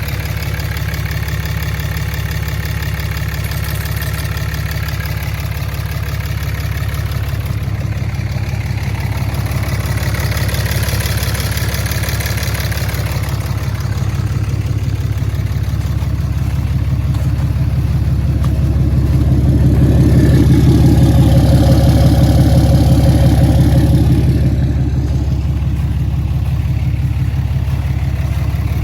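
Diesel pickup engine idling through open exhaust stacks, with steady low running and one louder swell of several seconds about two-thirds through before it settles back. The engine is running just after a coolant refill and bleed, to check for leaks.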